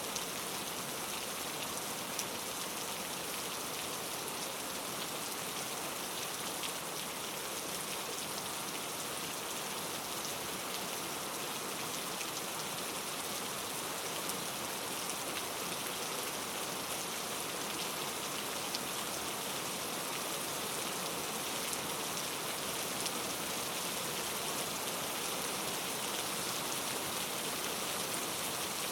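Steady rain falling, an even hiss of rainfall with many fine drop patters on a surface, no thunder.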